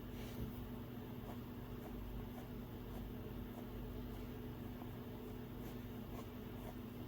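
Stylus tip tapping and sliding on an iPad's glass screen in short, faint strokes, over a steady low hum.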